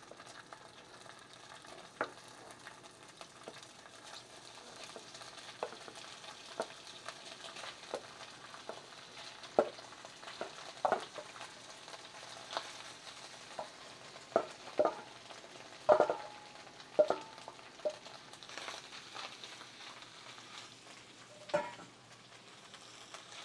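Chunks of vegan sausage and vegan chicken sizzling as they fry in a skillet, with irregular sharp knocks and clatters, densest in the middle, as more pieces are tipped in from a metal bowl with a wooden spatula.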